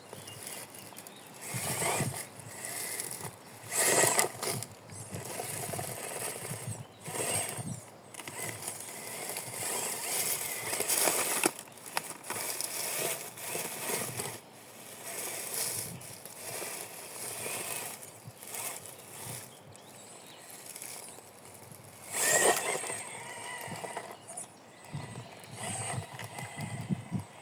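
Radio-controlled car driving over forest ground and wood: irregular crunching and rustling under its wheels, with a few sharper knocks.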